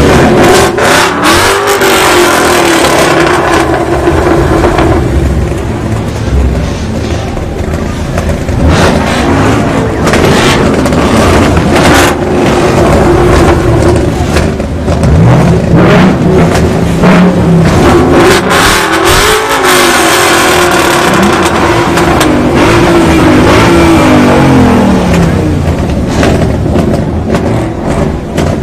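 Car engine revving several times: each rev climbs, holds for a few seconds and drops back, with a few sharp cracks from the exhaust.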